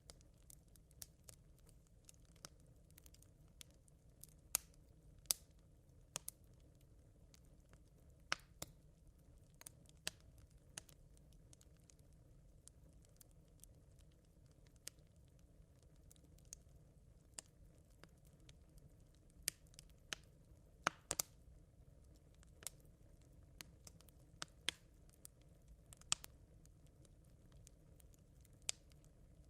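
Smouldering campfire embers crackling faintly: sparse, irregular sharp pops and ticks over a faint low rumble.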